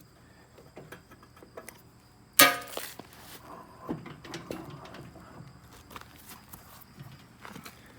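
A single loud metallic clang about two and a half seconds in, ringing briefly, among quieter clicks and knocks of metal parts and tools being handled during snowblower drive disassembly.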